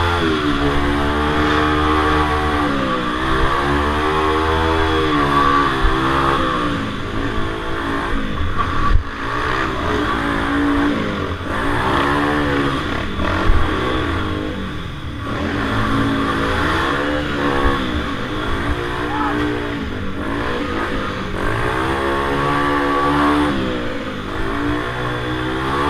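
Minibike engines racing around a small circle track, their pitch rising and falling over and over every couple of seconds as the riders throttle up and back off through the turns. There are two sharp knocks partway through.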